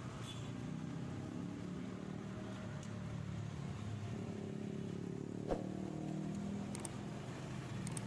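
Motorcycle engine running steadily at low revs, with a single sharp click about five and a half seconds in.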